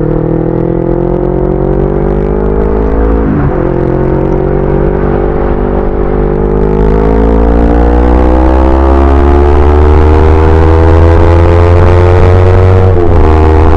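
Yamaha YZF-R25's parallel-twin engine pulling under acceleration, its note climbing steadily. Brief breaks and drops in pitch about three seconds in and again near the end mark upshifts. Wind noise grows as speed builds.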